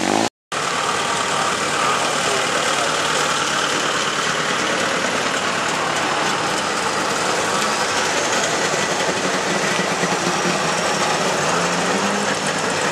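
Engines of slow-moving old Eastern Bloc vehicles, among them Trabant cars with their two-stroke engines, running steadily as they pass. The sound drops out for a moment just after the start.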